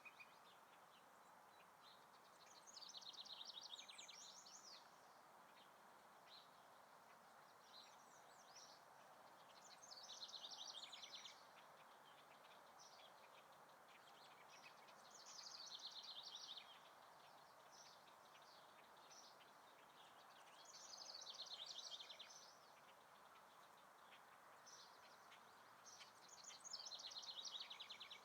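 A songbird singing the same short, quick trilling phrase five times, about every five to six seconds, over a faint steady background hiss.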